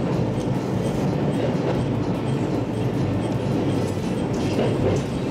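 Echigo Tokimeki Railway local train's running noise heard from on board, a steady rumble of wheels on rails as it rolls slowly into a station platform to arrive.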